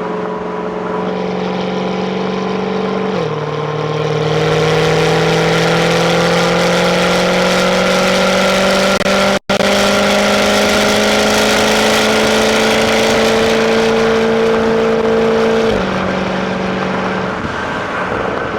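Jaguar F-Type's supercharged 5.0 V8 on its stock exhaust, heard from inside the cabin while driving. The engine note drops about three seconds in as it shifts up. It then climbs steadily for about twelve seconds under acceleration and drops again near the end. The sound cuts out for an instant about nine seconds in.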